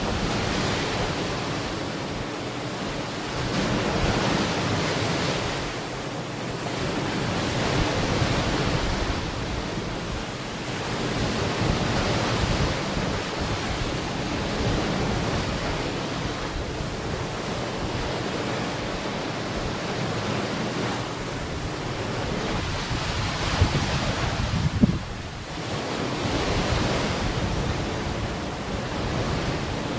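Ocean waves washing onto a shore, swelling and falling back every few seconds, with wind buffeting the microphone. Near the end there are a couple of brief sharper gusts.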